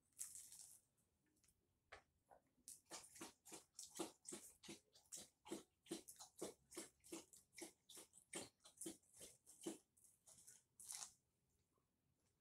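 A person chewing a mouthful of strawberry cream hand pie with a flaky pastry crust, close to the microphone. There is a short bite sound at the start, then a steady run of chews, about three a second, that stops shortly before the end.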